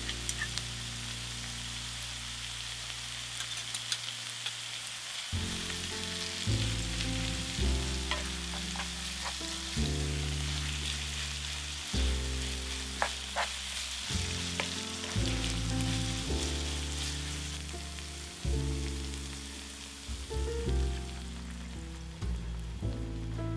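Food sizzling as it fries in oil in a pan, with stirring and a few sharp clicks of a utensil against the pan. Soft background music plays underneath.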